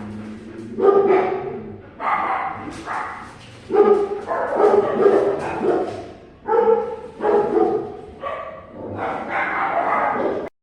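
Dog barking and yipping over and over, a dozen or so pitched calls, some drawn out, that stop abruptly near the end.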